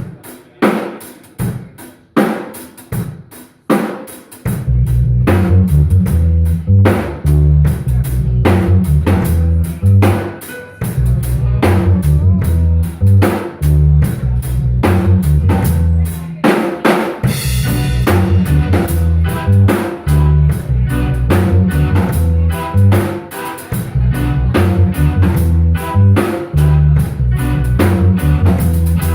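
Live instrumental band: a drum kit plays alone with spaced snare and kick hits for the first few seconds, then a bass line and the rest of the band come in and play a steady groove.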